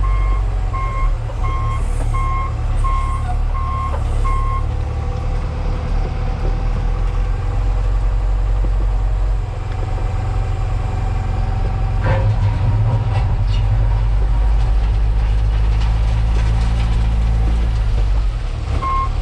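A Case 521 wheel loader's diesel engine running steadily under load, heard from the cab. A backup alarm beeps about every half second for the first few seconds and starts again at the very end. There is a single clunk about twelve seconds in.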